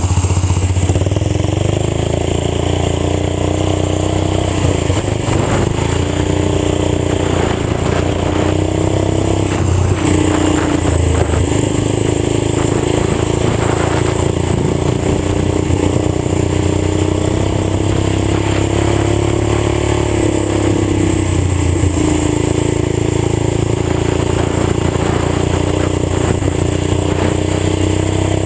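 Old tractor engine running loud and unmuffled through a fully open exhaust pipe, its pitch rising and falling again and again as the engine speed changes.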